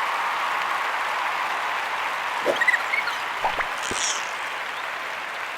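Applause: steady clapping, with a few short high chirps and faint knocks about halfway through.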